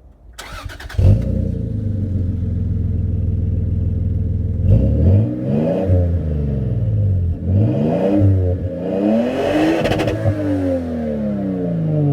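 Lexus GS 300's 2JZ-GTE twin-turbo straight-six is cranked briefly by its starter and fires about a second in, then idles steadily through its exhaust. It is then revved three times, rising and falling, with the last rev the highest and slowest to settle back to idle.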